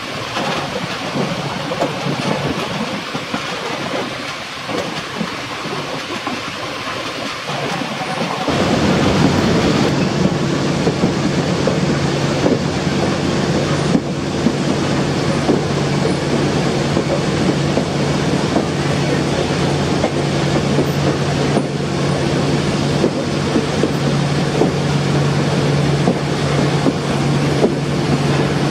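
Passenger train coaches rolling along the track, wheels clicking over rail joints with a steady rumble. About a third of the way in, the sound turns abruptly louder and a steady low hum joins in.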